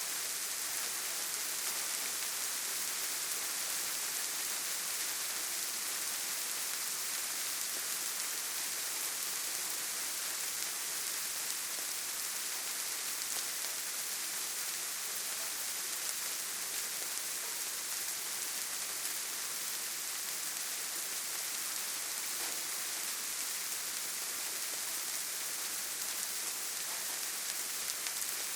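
Steady rain falling, an even hiss that holds the same level throughout, with no single drops or other sounds standing out.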